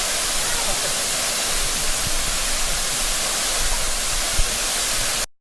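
Waterfall's rushing water, a steady loud hiss, that cuts off suddenly near the end.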